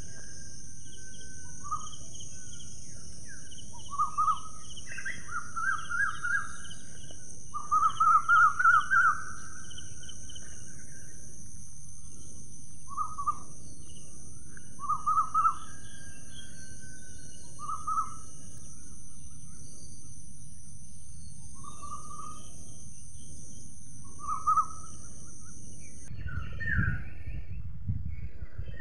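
Birds calling outdoors in short, repeated chirping notes, with a louder run of fast trilled notes about eight seconds in, over a steady high hiss and low background noise; the high hiss stops shortly before the end.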